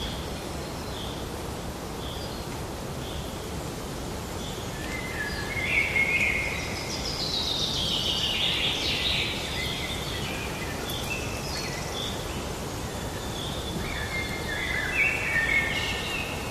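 Wild birds calling and singing over a steady outdoor hiss. Short high chirps repeat about once a second, with longer song phrases about five to nine seconds in and again near the end.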